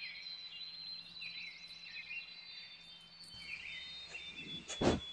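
Faint birds chirping and warbling over a quiet background hiss, with a single short click near the end.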